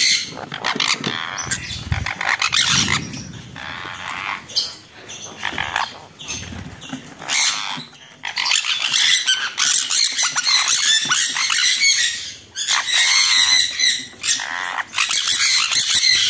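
A flock of conures (jenday, sun and green-cheeked) screeching and squawking over and over in alarm, the parent birds defending a nest box with a chick inside. The calls come thickest and loudest in the second half.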